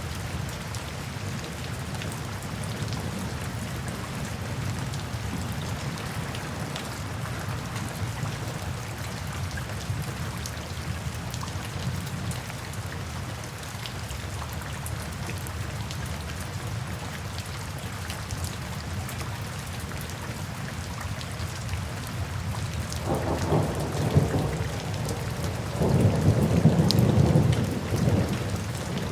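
Steady rainfall in a thunderstorm, with two rolls of thunder near the end, the second louder and longer.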